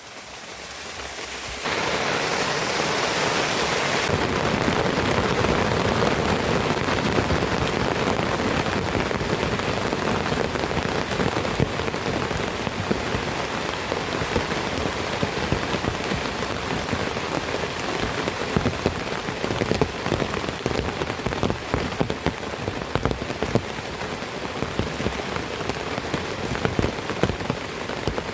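Heavy tropical downpour arriving: the rain swells over the first couple of seconds, then comes down hard and steady, with many sharp drop hits close by.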